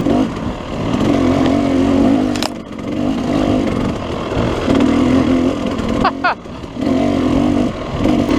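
KTM 300 two-stroke dirt bike engine being ridden, the throttle opening and closing in repeated bursts, with short drops in revs about two and a half and six seconds in.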